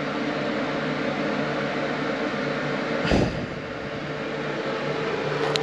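Bathroom exhaust fan running with a steady hum. There is a single thump about three seconds in and a short click near the end.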